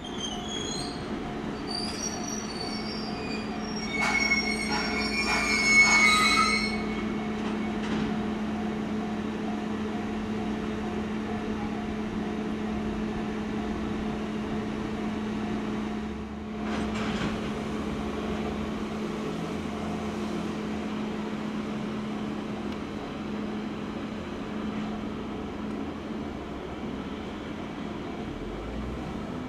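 A train running on rails: the wheels squeal in high wavering tones and clack over rail joints, loudest about six seconds in. After that comes a steady rumble with a low hum.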